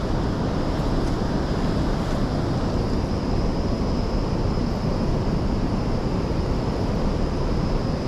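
Steady, unbroken rushing noise with a faint high whine running through it.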